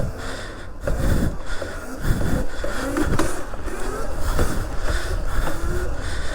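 Pit bike riding at speed, its pitch rising in short sweeps again and again over a steady low rumble.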